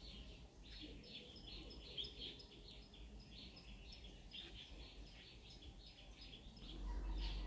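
Small birds chirping faintly in short, quickly repeated notes, over a low steady hum that grows louder near the end.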